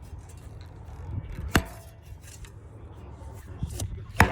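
Shovel chopping and slapping into packed dirt while a jump is being shaped: three sharp strikes, the loudest near the end, over a low steady rumble.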